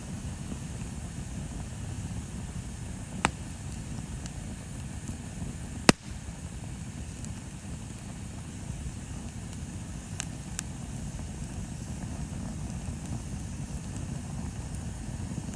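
Bonfire burning with a steady low rumble, broken by a few sharp crackling pops from the burning wood. The loudest pop comes about six seconds in, another about three seconds in, and two fainter ones close together near ten seconds.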